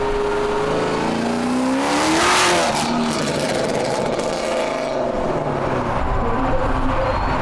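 2022 Camaro ZL1's supercharged V8, straight-piped with 2-inch headers, passing by at speed. Its note drops in pitch as it goes past about two seconds in, which is the loudest moment.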